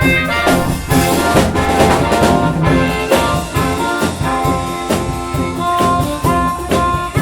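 A live blues-funk band plays an instrumental break over a steady beat, with a lead instrument holding long notes in the second half.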